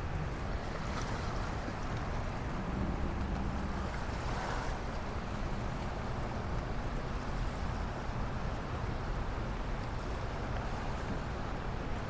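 Wind rumbling on the microphone over a steady outdoor hiss, which swells briefly about four and a half seconds in.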